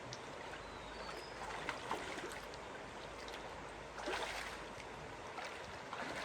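Steady rush of flowing water, with a few short splashes about four seconds in.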